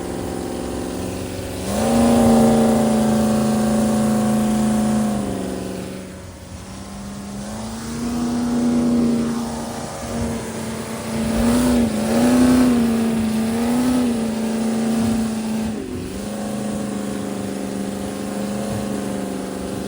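An engine running steadily under way. It gets louder about two seconds in, eases off around six seconds, and its pitch wavers up and down a few times in the middle.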